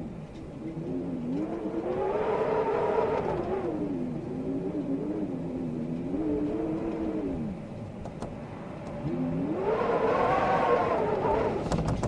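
Storm wind howling, a moaning tone that slowly rises and falls in pitch as the gusts swell and ease, over a steady rushing hiss.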